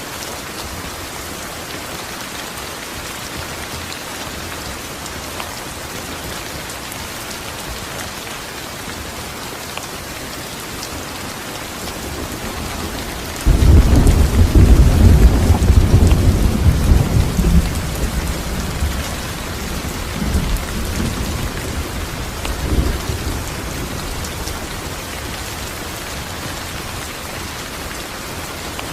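Steady heavy rain. About halfway through a loud thunderclap breaks in suddenly, and its low rumble rolls on and fades over roughly ten seconds.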